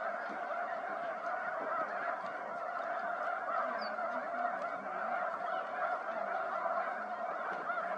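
A large flock of geese calling all at once: a dense, steady din of overlapping honks.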